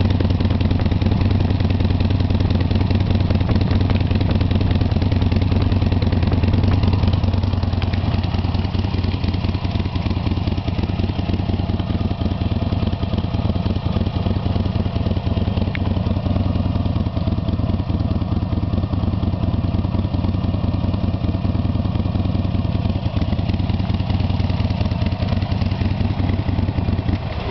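Buell XB12X's air-cooled V-twin idling steadily through the original Drummer exhaust with its dB killer insert fitted; a deep, loud, even idle, a bit of a paint shaker.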